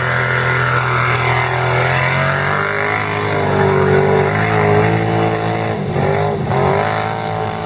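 Quad bike engines running at race pace, their pitch rising and falling as the riders work the throttle.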